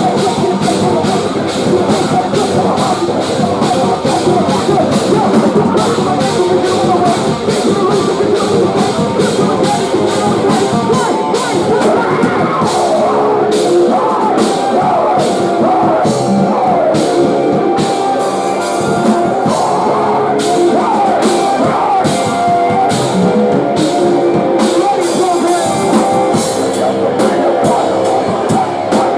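Post-hardcore band playing live and loud: drum kit and electric guitars, with singing.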